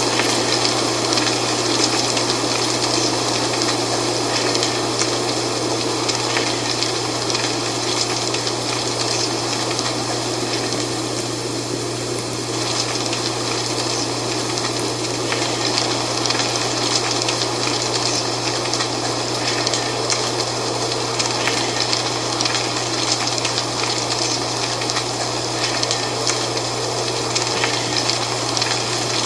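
Wind blowing through dry fall leaves: a steady rushing with fine, continuous leaf rustle and crackle, over a steady low hum.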